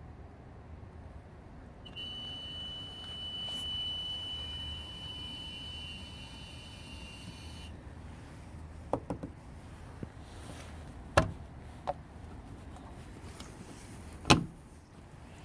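Strange noise from a 2016 Ford Focus SE's engine bay after the engine is switched off: a steady high-pitched whine for about six seconds, then a few sharp clicks and knocks. The dealer traced the noise to the air-conditioning system.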